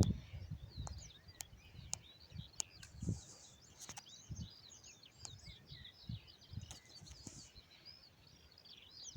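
Small birds singing and chirping steadily, with scattered sharp clicks and a few soft low thumps.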